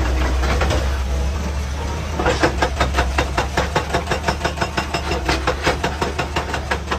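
Excavator engine running steadily. About two seconds in, a fast, regular knocking starts, about five blows a second, and goes on to the end.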